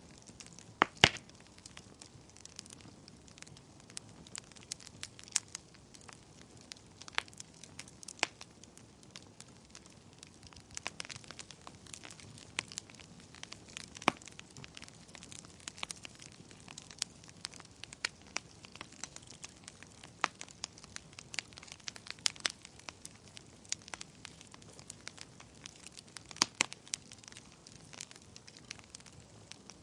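Wood fire burning in a fireplace, crackling with irregular sharp pops over a faint hiss; the loudest pops come about a second in, around the middle and again near the end.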